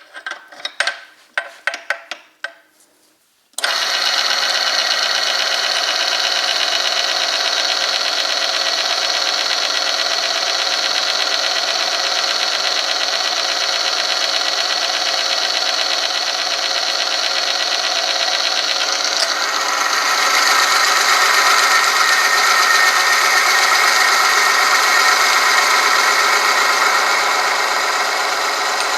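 A few sharp clicks and knocks, then the oil-film friction test machine starts about three and a half seconds in and runs steadily, metal grinding against a steel sample lubricated with Liqui Moly Street Race 4T 10W50. About two-thirds of the way through its tone drops and it grows a little louder.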